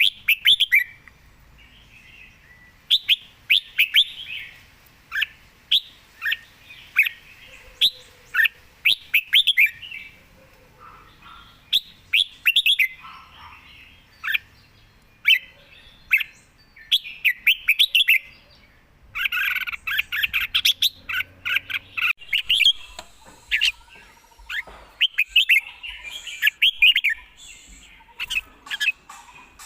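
Red-whiskered bulbul singing: short, quick phrases of sharp whistled notes, repeated every second or two, with a dense run of notes about two-thirds of the way through.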